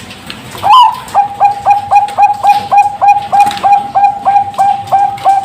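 Zebra dove of the Bangkok perkutut breed singing: a rising opening note under a second in, then a fast, even run of short coos at about four a second.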